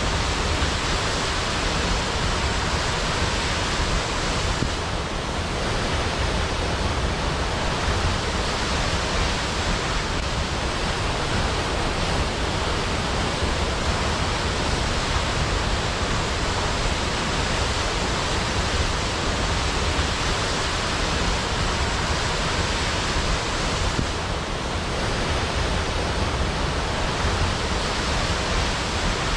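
Waterfall: water falling in a steady, even rush, easing slightly for a moment about five seconds in and again near the end.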